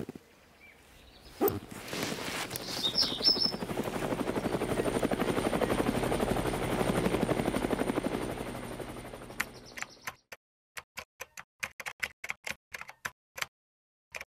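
A rapid rattling buzz swells and fades over several seconds, then a quick, uneven run of keystroke clicks from a typing sound effect.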